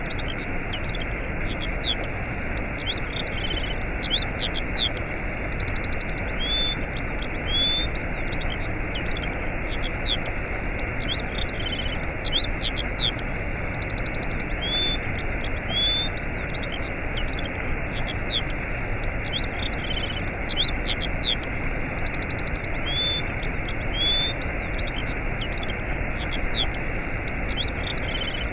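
Steady rush of a waterfall with small birds chirping over it throughout, in short rising calls and quick trills.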